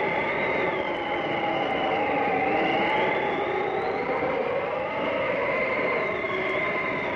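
Howling blizzard wind: a steady rush with several high whistling tones that slowly rise and fall.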